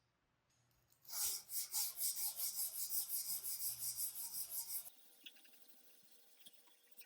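Rapid back-and-forth scraping strokes of a hand tool rubbing over a part of a hand plane, about three strokes a second, starting about a second in and stopping abruptly near five seconds.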